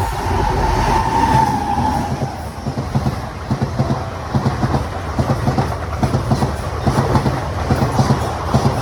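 Train passing close by: a horn note fades out in the first two seconds, then the wheels beat over the rail joints in a steady, rapid clickety-clack.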